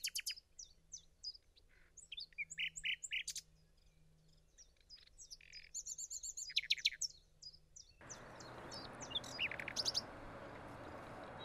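Songbirds chirping and twittering in many short, quick calls. About eight seconds in, a steady background hiss of outdoor forest ambience comes in under the calls.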